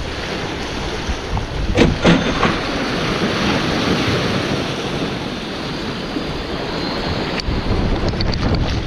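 Sea waves washing over a rocky shore, with wind buffeting the microphone; two short knocks sound about two seconds in.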